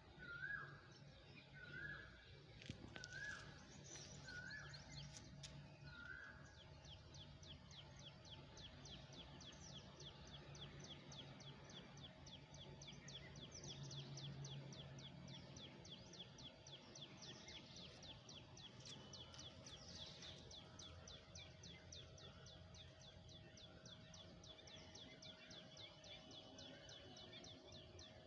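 Faint garden ambience with birds calling: a repeated short chirp about once a second for the first few seconds, then a long fast run of short high notes, several a second, through the rest, over a low steady hum.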